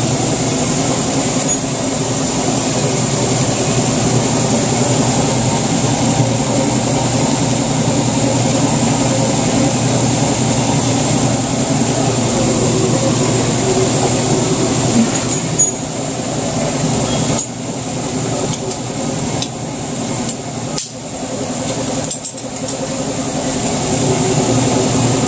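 Whirlpool stackable washer running its spin cycle: a steady motor hum with a thin high whine. The washer spins again now that the faulty lid switch, which had kept it from spinning and draining, has been dealt with. It eases off slightly past the middle, with a few sharp clicks or knocks.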